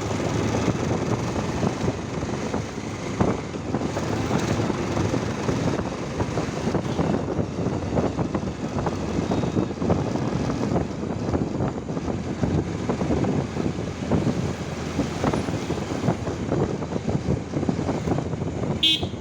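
Motorcycle riding along at speed: steady engine and road noise with no break.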